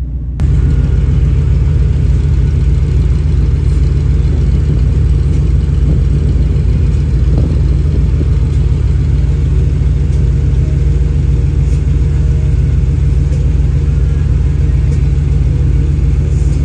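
Engine of a 1956 Chevy 3100 pickup fitted with a Holley Sniper 2 EFI, running steadily at idle with a deep, even rumble.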